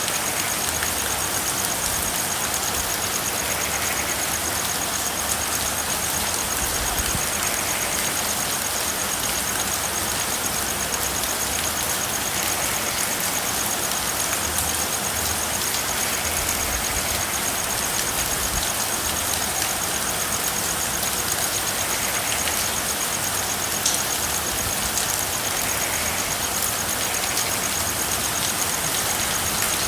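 Steady rain falling, an even hiss with no breaks. A faint, rapid high trill runs through it.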